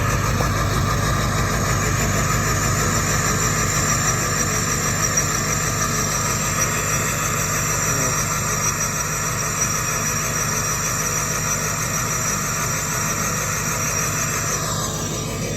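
Straight-piped 7.3 Powerstroke turbo V8 diesel idling cold with a steady rumble and a high turbo whistle. The whistle falls in pitch near the end. The lope tune barely shows in the idle because the engine is cold.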